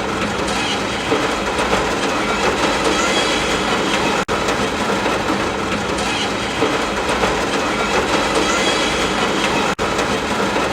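Steady, even wash of noise from a looped ambience track sold as rain sounds, carrying a rumble that a tagger hears as a train. It breaks off for a split second twice, about four seconds in and near the end, where the loop is joined.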